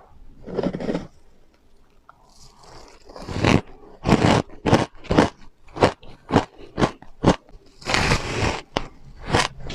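Mouth biting and chewing refrozen powdery ice, with soft crunches. There is a longer crunching bite early on and another near the end, and between them sharp chewing crunches come about two a second.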